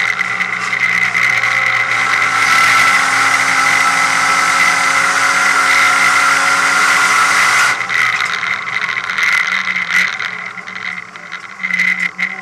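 Nissan R32 Skyline race car's engine running hard at steady high revs, heard from inside the stripped cabin; about eight seconds in it cuts back sharply as the car lifts off, followed by a few short knocks as it slows for the corner.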